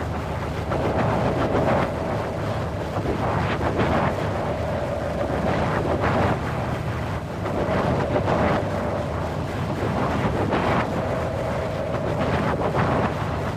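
Wind blowing in gusts: a dense rushing that swells and eases every couple of seconds, with a faint whistling tone running through it.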